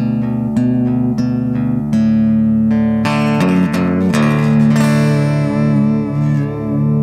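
Guitar playing: a picked pattern repeating about every half second, then a few hard-strummed chords three to four seconds in, the last one left ringing.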